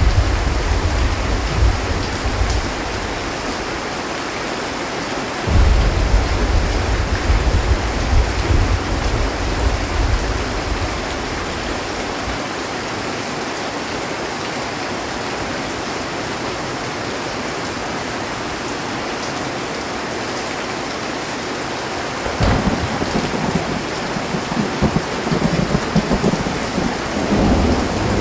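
Heavy rain falling steadily on a metal roof, with thunder. One rumble dies away in the first couple of seconds, a sudden deep rumble starts about five seconds in and rolls on for several seconds, and a sharper clap about twenty-two seconds in is followed by more rolling rumbles.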